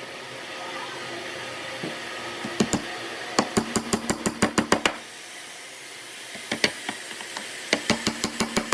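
Hammering on wood: runs of quick, sharp knocks, about four or five a second, in two bursts with a short pause between, over a steady low hum.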